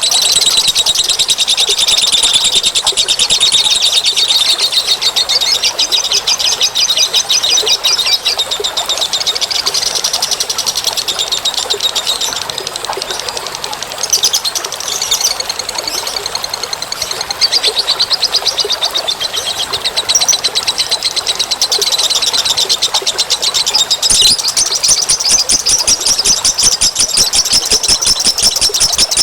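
Bird-lure call recording: continuous, loud, high-pitched chirping and trilling of small birds, with the notes coming in very fast rapid-fire runs many times a second and hardly a pause.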